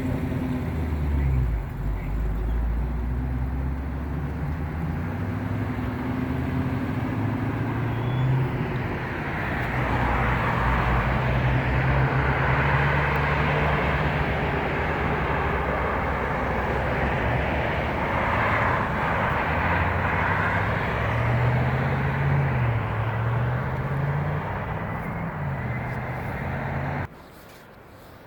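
Car engine running, its low hum rising and falling in pitch, under a steady rush of road or air noise. It cuts off suddenly near the end.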